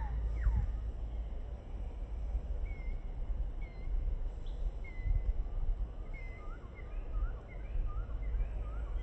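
Birds chirping over a low steady rumble: a few falling whistles at the start, then short repeated chirps from about three seconds in.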